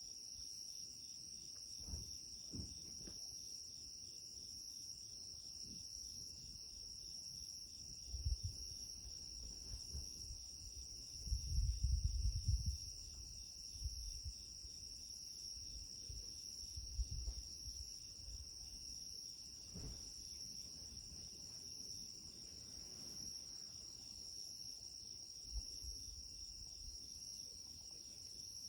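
Crickets and other autumn insects calling together at night: a steady high trill with a faster pulsing chirp lower down, running without a break. A few low rumbling bumps come and go, the loudest near the middle.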